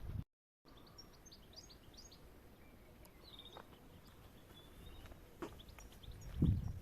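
Birds chirping with short, high calls over quiet outdoor ambience, with a brief dropout at the start and a couple of low thuds near the end.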